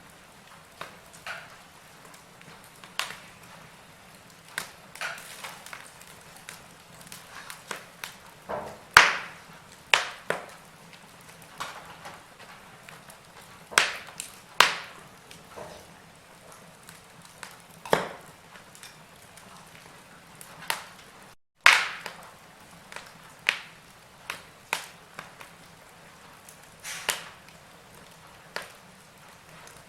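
Log fire crackling: irregular sharp pops and snaps of burning wood over a faint steady hiss, with a few louder pops.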